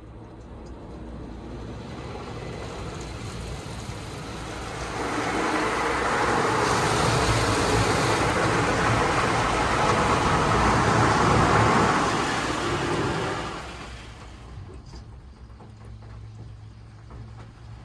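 Beauty 'Miyabi' automatic car wash machine passing over the car, heard from inside the cabin: a steady noisy wash that builds up, is loudest in the middle, and fades about three quarters of the way through.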